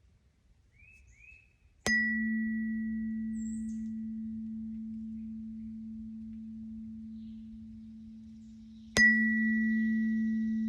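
Third eye chakra tuning fork struck twice, about seven seconds apart. Each strike gives a short bright ping, then a steady low hum that slowly fades. Faint bird chirps come before the first strike.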